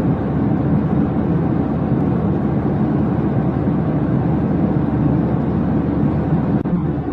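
Steady low rumbling cabin noise of a jet airliner in flight, engines and airflow holding an even level.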